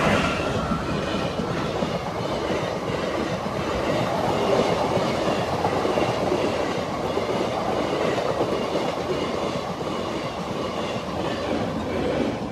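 A train rolling past on the track: steady wheel-on-rail noise following the loudest moment of the pass.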